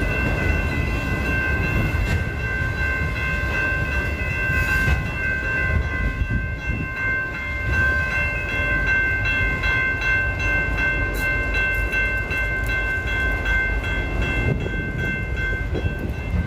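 Freight train rumbling through a grade crossing while a crossing bell rings steadily, its ringing tones held high above the train noise.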